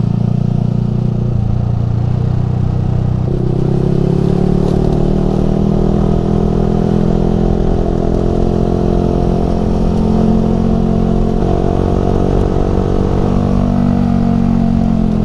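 Yamaha R15 V3's single-cylinder engine running through an aftermarket Ronin Musashi exhaust while riding. The engine note steps up about three seconds in and then climbs slowly as the bike pulls.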